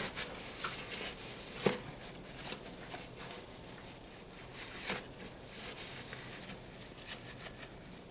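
Faint rubbing and wiping sounds as old grease is cleaned off the throwout-bearing parts by hand, with two light knocks, near two seconds in and about five seconds in.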